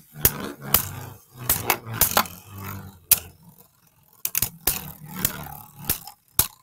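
Spinning Beyblade tops clattering against each other and the plastic stadium, a run of sharp, irregular clicks and knocks.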